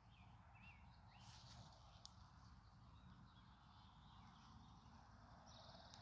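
Near silence: faint outdoor ambience with a few distant bird chirps in the first second or so and a short buzzy trill near the end, over a low steady rumble.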